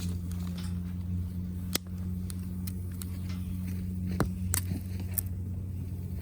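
Wood campfire crackling, with scattered sharp pops, over a steady low hum.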